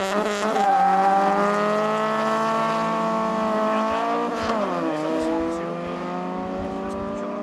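Two Honda cars launching side by side from a standing start, their engines revving high as they accelerate away in a drag race. About four and a half seconds in, the engine note drops at a gear change, then climbs again.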